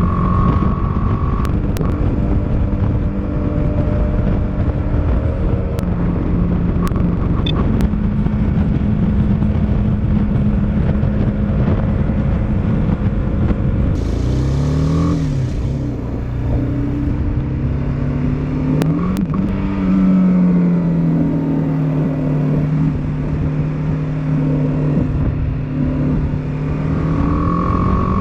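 Motorcycle engine running while under way, its pitch holding steady for long stretches. About halfway through the pitch dips and climbs again, then settles at a new steady note.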